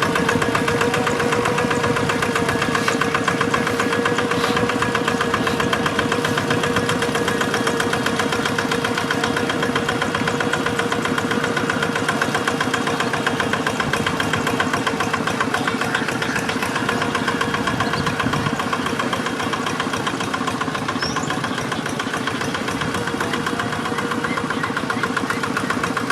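Two-wheel hand tractor's single-cylinder diesel engine running steadily with a rapid, even beat.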